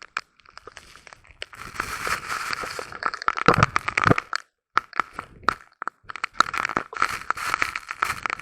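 Heavy rain shower, with drops striking close to the microphone as irregular crackling hits over a hiss, in uneven clusters with a heavier thud about three and a half seconds in.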